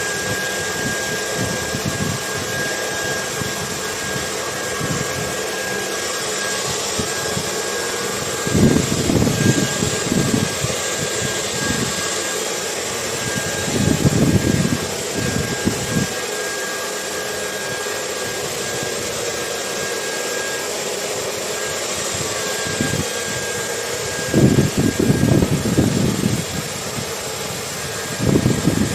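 Hair dryer blowing steadily: an even rushing hiss with a thin, constant high whine. Low rumbling gusts of wind swell up over it several times, about nine, fourteen and twenty-five seconds in, and again near the end.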